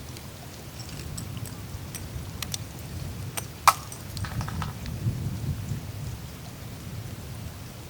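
Melting glacier ice surface: a low, steady rumble of meltwater running through the ice, with scattered small clicks and ticks of melting ice, one sharp crack a little over three and a half seconds in, and a brief glassy tinkle just after.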